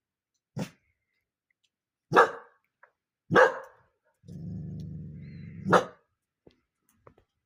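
A dog barking four times, short sharp barks one to one and a half seconds apart, with a low steady growl of about a second and a half just before the last bark.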